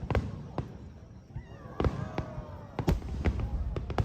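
Aerial fireworks bursting: a run of sharp bangs at uneven intervals, several close together, over a low rumble.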